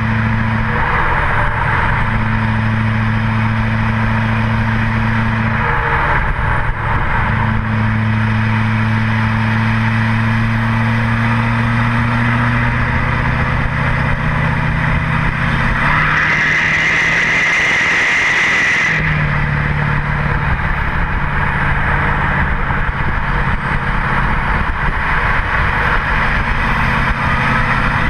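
2008 LMM Duramax 6.6 L V8 turbodiesel running through a 4-inch straight pipe with the cat, DPF and muffler deleted, giving a steady, loud exhaust drone that shifts in pitch a few times. Past the middle, for about three seconds, the low drone gives way to a loud hiss before the engine tone returns.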